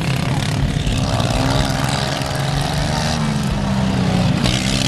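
Engines of modified racing lawn tractors running together, with their pitch shifting a few times as they go round.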